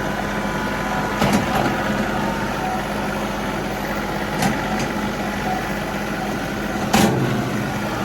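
John Deere 3038E compact tractor's diesel engine running steadily, with three short clanks, the last one near the end the loudest.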